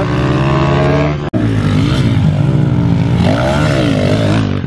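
Small minibike engines revving up and easing off again and again as the bikes race round a dirt track, with a brief cut about a second in.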